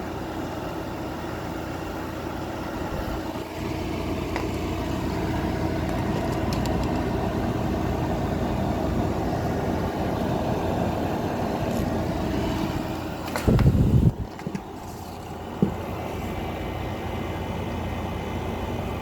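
2024 Midea 5,000 BTU window air conditioner running in cooling mode, its compressor and fan giving a steady hum. A brief loud low rumble comes about two-thirds of the way through, followed by a single click.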